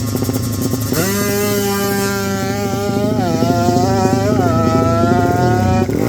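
Racing motorcycle engine revving hard at high rpm, its pitch held high and steady with two brief dips and recoveries partway through.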